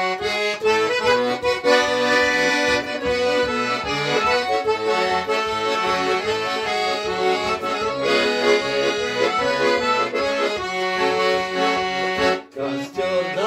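Accordion playing an instrumental introduction to a song: a melody over sustained chords with regular pulsing bass notes. It breaks off briefly about twelve seconds in, then resumes.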